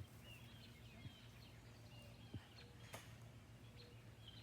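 Near silence with faint bird chirps in the background: short, quick chirps scattered through, over a low steady hum, and a single sharp tick about three seconds in.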